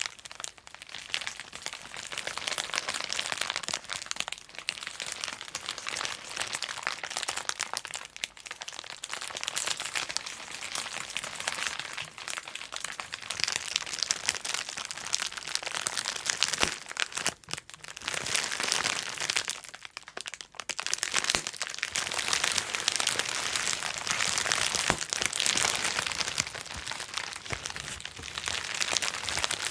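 Bubble wrap being popped in rapid, dense runs of small cracks, with plastic crinkling as it is handled; there are short lulls about two-thirds of the way through.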